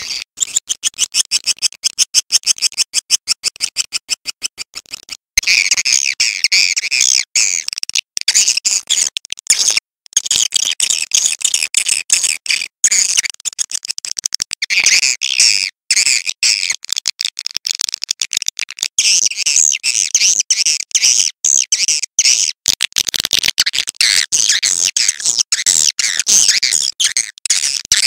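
Swiftlet calls: a fast, even run of high chirps for about five seconds, then a dense, overlapping twitter. This is a recorded swiftlet sound of the kind played to draw swiftlets into a nesting house.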